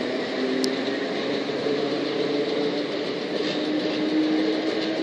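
Class 455 electric multiple unit pulling away from the station: a steady train rumble with a motor whine that rises slowly in pitch, and one brief sharp click about half a second in.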